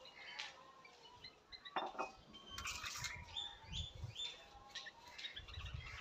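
Small songbird chirping: a busy run of short, quick chirps, some sliding up or down in pitch, with a few low dull bumps.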